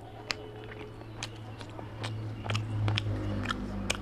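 Close-miked eating: sharp, wet mouth clicks of chewing, scattered irregularly, over a low hum that swells a little past the middle.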